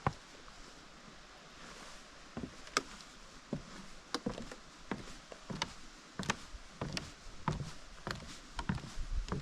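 Footsteps of hikers walking a forest trail: irregular knocks and taps, sparse at first and coming more often in the second half.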